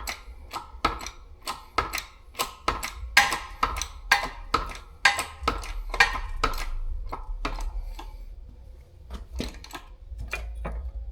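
Lower ball joint being pressed out of a Chevy K5 Blazer steering knuckle on a shop press: a rapid, even run of sharp metallic clicks, about three a second, that thins out to a few scattered clicks near the end.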